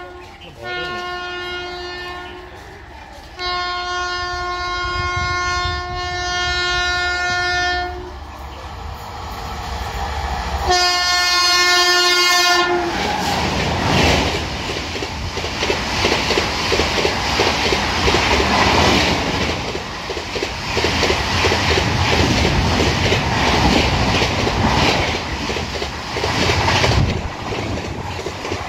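Express train's horn sounds three blasts, a long one of about four seconds in the middle, as the train approaches. From about halfway through, the train of LHB passenger coaches rushes past at high speed with loud, fast wheel clatter and rushing air.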